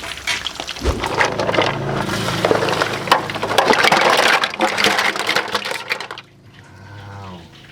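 Freshly boiled shellfish clattering together in a container as they are tipped and handled: a dense run of hard clicks and knocks that drops away about six seconds in.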